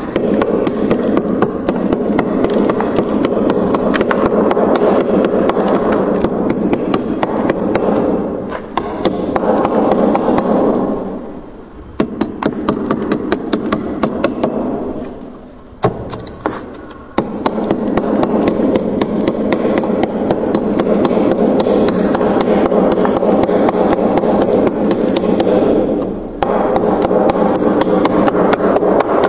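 Frost being scraped off a freezer's walls with a tool: long runs of rapid, grating scraping strokes, broken by a few short pauses, with a spell of quick sharp knocks on the ice in the middle.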